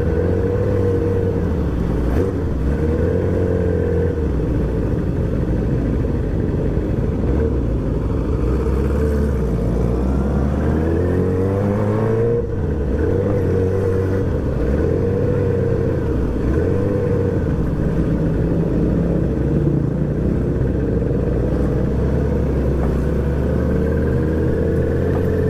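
R6 sport motorcycle's engine heard while riding, running steadily through traffic. The revs climb for a few seconds, fall sharply about twelve seconds in, then pick up again.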